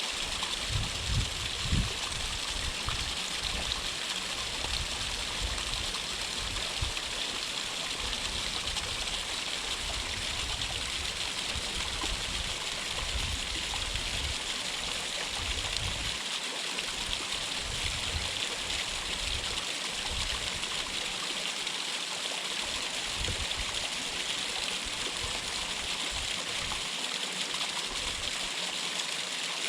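Water rushing steadily down a small waterfall or cascade, an even hiss with no breaks. An irregular low rumble runs underneath, heavier in the first half and thinning out towards the end.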